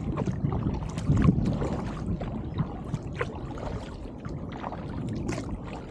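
Kayak paddling on a river: the paddle blades dipping and splashing into the water in irregular strokes, over a low, steady rumble.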